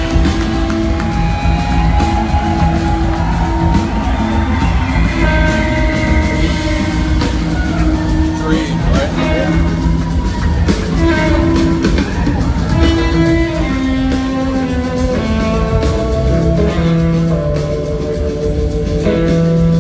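Live rock band playing, with an electric slide guitar carrying the lead line in long held and gliding notes over bass and drums.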